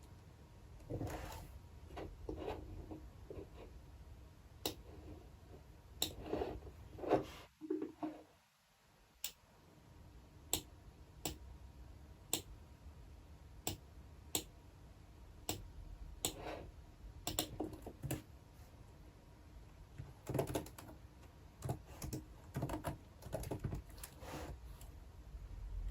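Typing on a computer keyboard in short bursts of keystrokes, with single sharp clicks spaced about a second apart in the stretch between the bursts.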